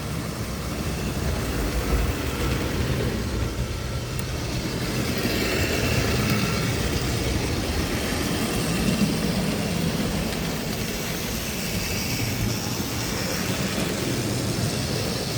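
Tri-ang model train running on the layout: the steady whirr of its small electric motor and the rumble of its wheels on the track.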